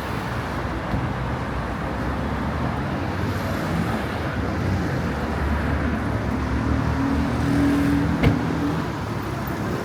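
Busy city street traffic: a steady rumble of road vehicles, with one engine hum swelling briefly near the end and a single sharp knock about eight seconds in.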